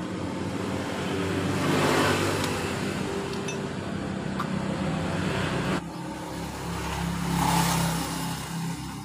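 Motor vehicles passing by one after another: engine hum and road noise swell and fade about two seconds in, then rise again to a second peak near the end.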